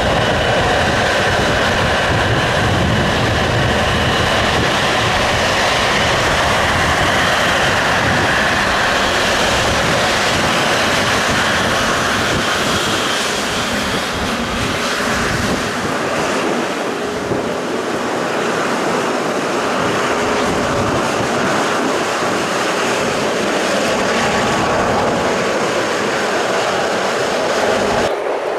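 Jet engines of a Boeing 777 running: a steady wash of engine noise with a faint high whine. The deep rumble thins out about halfway through.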